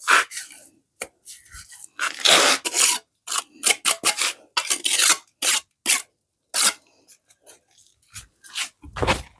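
Irregular rasping and scraping strokes, some short and some about a second long, with brief pauses between them.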